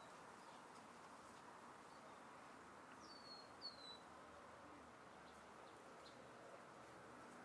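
Near-silent outdoor ambience with a faint steady hiss, and a bird giving two short, falling high chirps about three seconds in.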